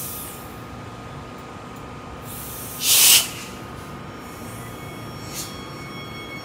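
Steady rumble of a Queensland Rail train, with one short, loud hiss about three seconds in and a fainter hiss near the end.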